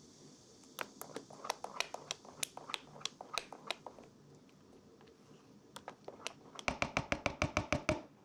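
Kitchen utensils clicking and knocking during baking work: a string of irregular sharp clicks, then near the end a fast, even run of knocks, about seven a second.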